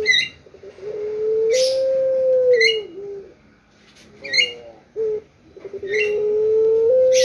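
Puter pelung dove cooing: two long, drawn-out low coos, each held on a steady pitch that steps up a little before it ends, separated by shorter coo notes. Short high chirps from another bird come at intervals between and over the coos.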